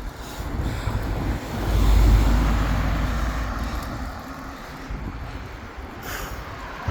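Wind buffeting the microphone with road noise while cycling, a low rumble that swells about a second and a half in and slowly fades over the next couple of seconds.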